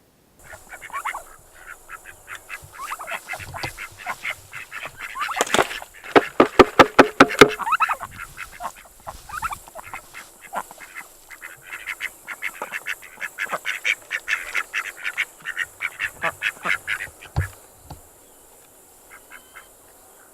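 A flock of domestic ducks quacking in rapid runs of calls, loudest a few seconds in and dying down near the end: hungry birds calling for their morning feed.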